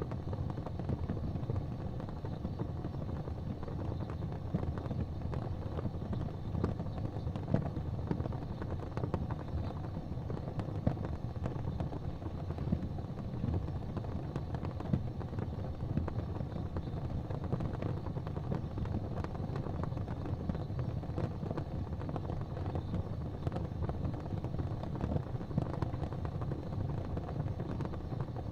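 Wood fire in a fireplace crackling with frequent small pops over a steady low rumble.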